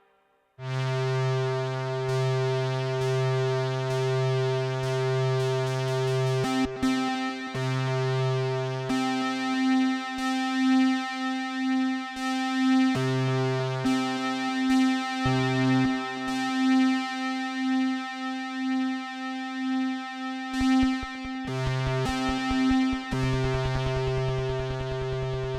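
Behringer Poly D analog synthesizer playing sustained, buzzy notes rich in overtones. It comes in about half a second in. A low bass note drops in and out, under a higher held note that pulses in level through the middle.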